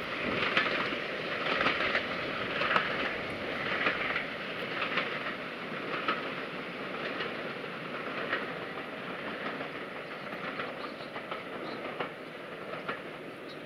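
Steam-hauled passenger train heading away, its coach wheels clicking over the rail joints about once a second. The clicks and rumble fade steadily as the train draws off.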